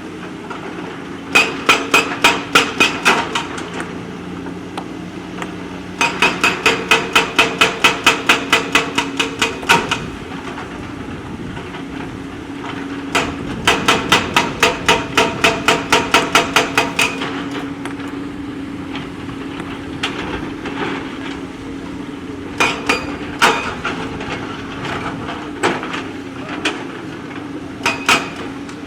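Bursts of rapid, evenly spaced metallic strikes, about four or five a second, each burst lasting a few seconds, with a few single clanks near the end, over a diesel engine running steadily.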